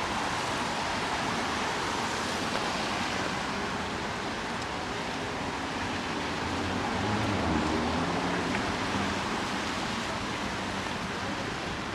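Steady hiss of rain with street traffic noise; a low vehicle engine hum swells and fades in the middle.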